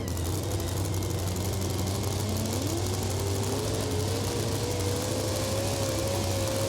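A super modified 2wd pulling truck's engine running steadily, its pitch rising about two and a half seconds in and then holding higher.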